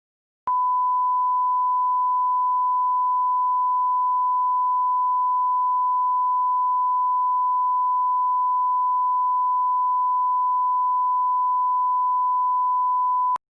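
Steady 1 kHz sine-wave line-up test tone at the −18 dBFS alignment level. It is one unbroken, constant pitch that starts about half a second in and cuts off just before the end.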